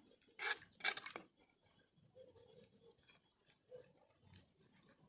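Eating utensil scraping in a cooking pot of noodles: two loud scrapes about half a second and a second in, then faint light clinks and taps.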